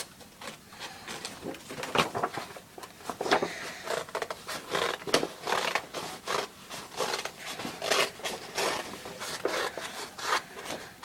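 Scissors cutting through a folder: a run of uneven snips and rubs, roughly one a second.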